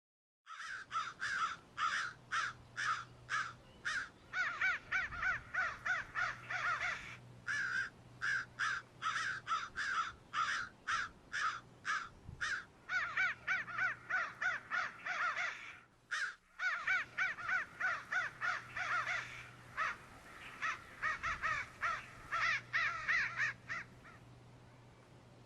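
A flock of crows cawing, many harsh calls overlapping in quick succession, with a brief break about two-thirds of the way through.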